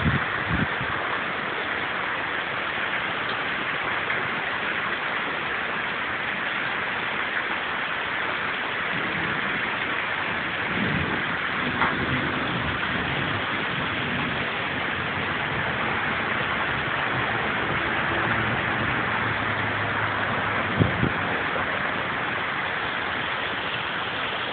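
Steady rain falling, a continuous even hiss, with a faint low rumble through the middle and a couple of brief knocks.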